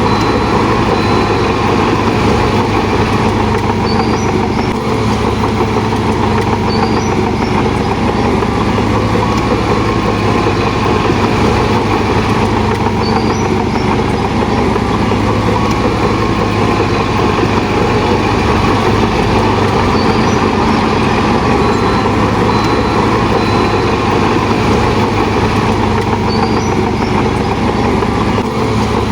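Heavy diesel engine of construction machinery running steadily with a constant low hum, with faint short high chirps every few seconds.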